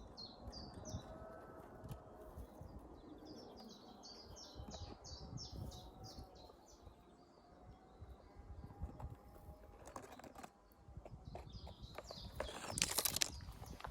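Songbird singing faintly, two quick runs of short, high, downslurred notes, the second longer. Near the end there is a louder rustle of brush or vegetation.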